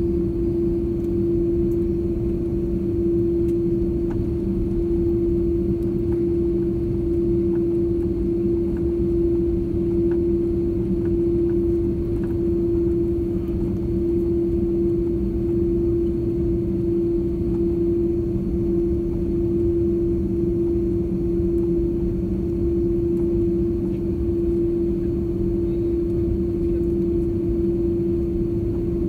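Jet airliner cabin noise: the steady rumble of engines and airflow with a constant low drone.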